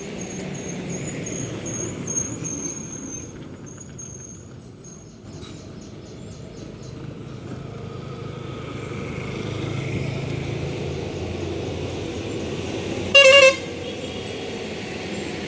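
A heavy truck's engine running steadily with road noise, and one short, loud horn blast about 13 seconds in.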